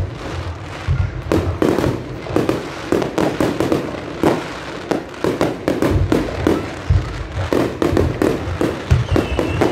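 Fireworks going off at close range in a rapid, irregular string of bangs, several a second, with deep booms mixed among sharper cracks.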